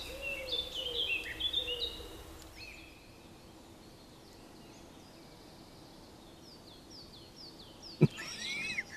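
Forest birds singing: a run of quick high chirps over the first two seconds, then a quieter stretch, a series of short falling notes, and repeated arching chirps near the end. A single sharp click about eight seconds in.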